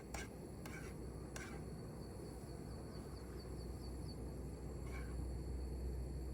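Outdoor ambience: a steady low rumble with a few short, sharp clicks in the first second and a half, one more about five seconds in, and a faint quick run of high ticks in the middle.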